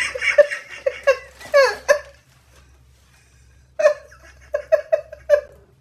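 A person laughing in short, rhythmic bursts: two bouts of laughter with a pause of a second or two between them.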